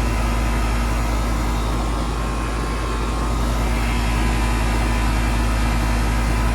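Central air conditioner condensing unit running steadily, its fan blowing over the hum of the compressor motor. The compressor is now running because its failed capacitor has been replaced.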